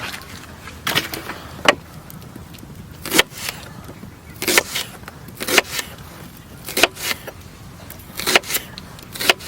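Kitchen knife cutting mushrooms on a cutting board: about eight sharp taps at uneven intervals, roughly one a second.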